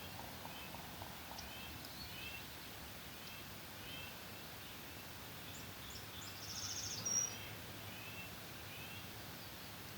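Morning songbirds singing: short high chirps repeat all through, and about six and a half seconds in a brief, louder, very high trill stands out.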